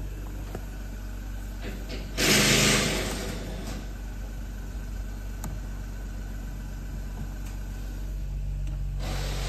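Genesis G90's 3.3-litre twin-turbo V6 idling steadily, heard from inside the cabin, with a brief loud rush of noise about two seconds in.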